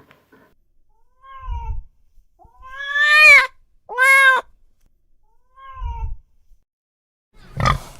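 Cat meowing four times, the two middle meows longest and loudest, rising then falling in pitch. A short harsh grunt follows near the end.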